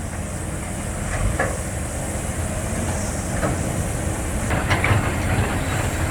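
Heavy diesel engine of an excavator running steadily, with scattered metallic clanks as it works and tramples the soft ground where a dump truck is stuck.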